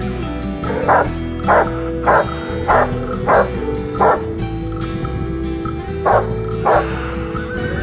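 Rottweiler barking in short loud barks, six in quick succession about 0.6 s apart, then two more after a pause of about two seconds, over steady background music.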